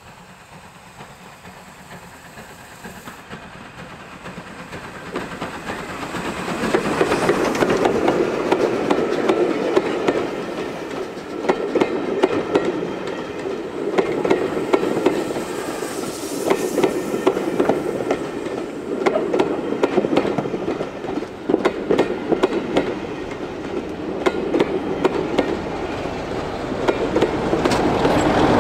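Steam-hauled passenger train approaching and passing close by, growing louder over the first several seconds. The coaches then roll past with a rhythmic clickety-clack of wheels over the rail joints and sharp clicks, and a diesel locomotive at the rear of the train passes near the end.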